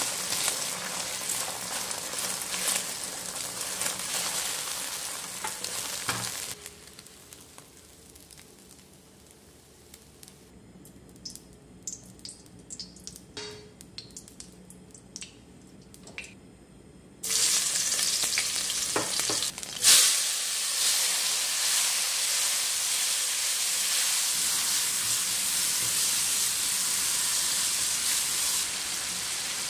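Food frying in a wok with a steady, loud sizzle. About six seconds in the sizzle drops away for roughly ten seconds, leaving scattered light clicks and knocks. It then comes back loud, with a sharp knock a few seconds later.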